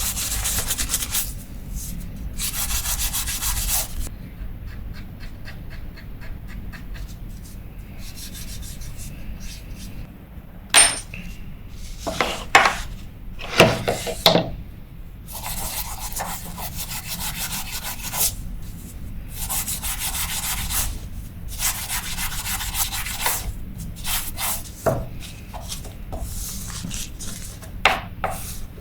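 Cloth wiping and rubbing around the drag area of a Daiwa 1000X spinning reel, in repeated scratchy strokes, with a few sharp knocks of small parts in between.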